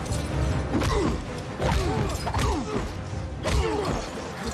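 Action-film sound mix of metal crashes and impacts, with repeated short falling-pitch metallic screeches, over a deep rumble and a music score.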